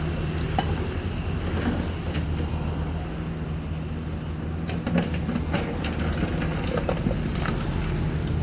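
Caterpillar 305.5E2 mini excavator's diesel engine running steadily under work, with scattered metallic clanks and knocks from the bucket and arm, the loudest about five seconds in.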